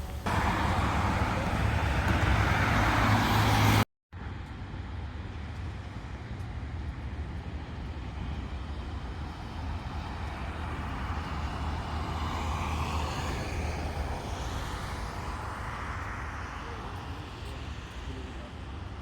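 Road traffic on a city highway: vehicles passing with a tyre and engine hiss over a low rumble. The sound is loudest in the first few seconds and cuts out briefly about four seconds in. A further vehicle passing swells and fades in the middle.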